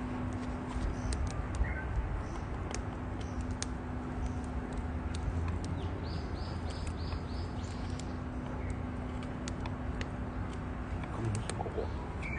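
Campfire crackling: scattered sharp pops and ticks over a steady low rumble. About halfway through, a bird calls a quick run of five high notes.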